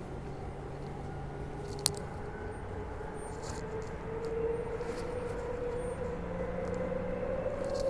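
Onboard running noise of a Bombardier B-series electric multiple unit train, with a steady whine that rises slowly in pitch from about four seconds in as the train gathers speed. A single sharp click comes about two seconds in.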